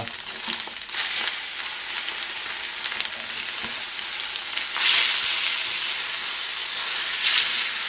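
Salmon fillets frying in olive oil in a frying pan: a steady sizzle that flares up louder about a second in and again about five seconds in, as each fillet is turned over onto its flesh side.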